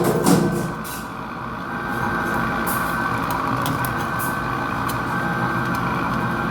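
Hydraulic press machine running with a steady drone, with a few sharp metallic knocks, the loudest two within the first half-second.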